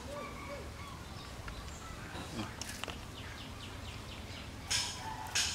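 Quiet outdoor background with faint, short bird chirps, and two brief hissy noises near the end.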